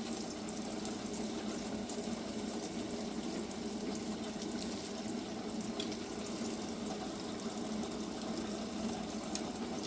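Hot oil sizzling steadily in a frying pan, with a few faint crackles.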